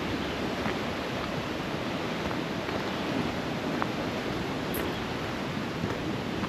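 Creek water rushing steadily over rocks, an even wash of sound, with a couple of faint ticks near the middle.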